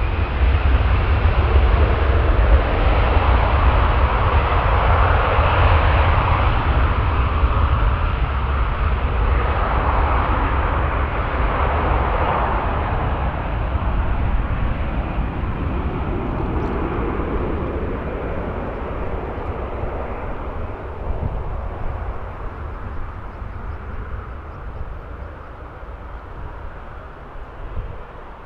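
Aircraft engines roaring as a plane passes over the airfield, with a deep rumble underneath. It is loudest in the first few seconds, then fades slowly as the aircraft moves away.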